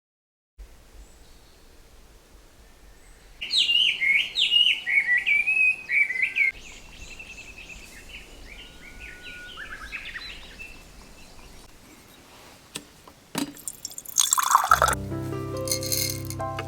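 Wild songbirds singing in woodland: one bird's loud, rapid run of chirping phrases about three seconds in, then fainter calls. Near the end a few sharp knocks are followed by background music.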